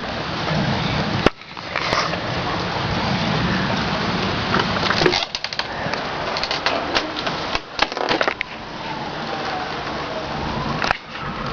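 Rain falling, with wind noise and the crackle and clicks of drops hitting the camera microphone. The sound breaks off abruptly a few times.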